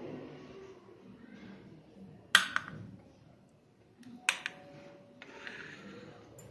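Kitchen dishware or utensils being handled: two sharp clinks about two seconds apart, the second ringing briefly, over low room sound.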